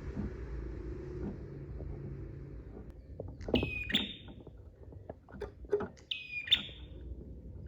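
A prinia calling: two loud, sharp calls about three seconds apart, each a quick rattle of ticks that leads into a short, high, ringing note. Scattered short ticks come between the calls, over a low background hum in the first few seconds.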